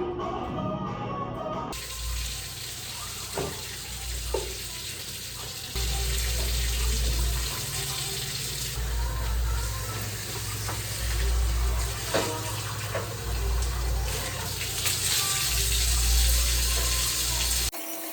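Water running from a tap into a sink, starting about two seconds in and cutting off suddenly near the end, with a few small knocks. Background music plays along.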